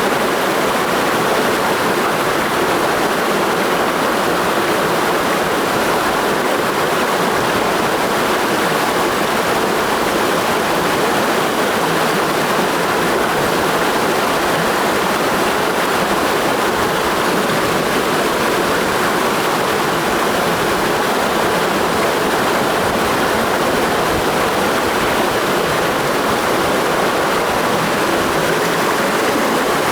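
Clear mountain stream flowing steadily, an even, unbroken sound of running water.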